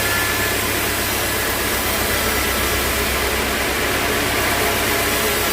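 Sawmill machinery running steadily: a constant low engine drone under a loud, even hiss.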